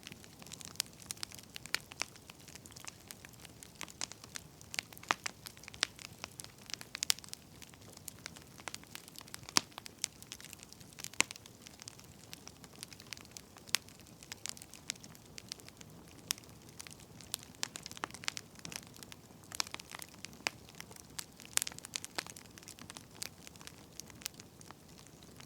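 Firewood burning, crackling with irregular sharp pops and snaps over a low steady hiss.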